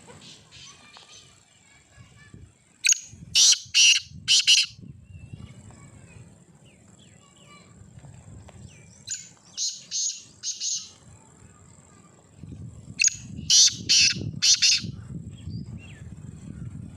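Black francolin calling: three loud bouts of four or five harsh, grating notes each, a few seconds apart.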